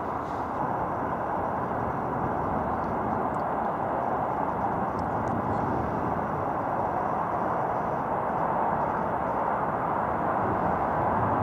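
Steady rushing outdoor ambient noise with no distinct events, growing slightly louder toward the end.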